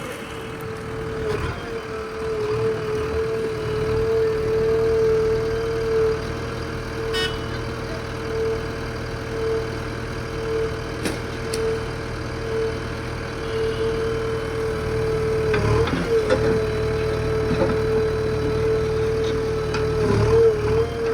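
JCB backhoe loader's diesel engine running steadily, with a constant high whine over the rumble and a few clanks now and then.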